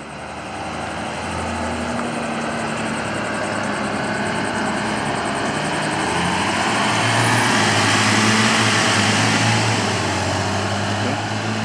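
A school activity bus driving past on the highway. Its engine hum and tyre noise build up, are loudest about eight seconds in, then fade as it moves away.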